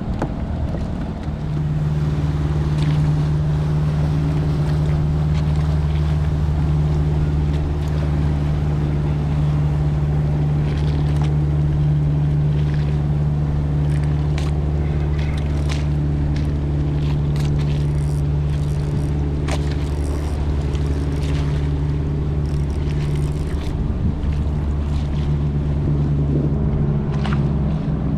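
Boat motor running steadily with a low, even hum, picking up slightly about a second and a half in, over wind and water noise.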